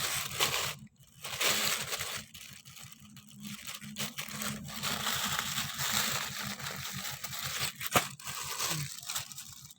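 Plastic packaging crinkling and rustling irregularly as items are handled and unwrapped, with a sharp click about eight seconds in.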